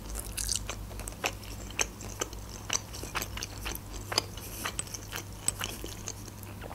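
Close-miked chewing of chicken wings in tomato sauce: an irregular string of sharp, wet mouth clicks, several a second.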